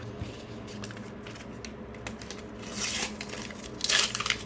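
Sticker pack wrapper crinkling and tearing open in two short bursts about three and four seconds in, after light handling of stickers.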